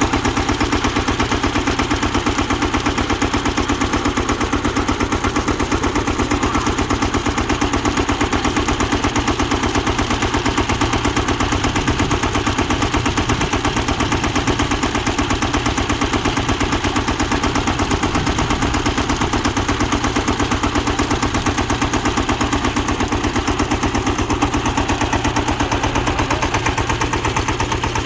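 Tractor-driven borewell drilling machine running: a diesel engine under steady load with a rapid, even, unbroken knocking.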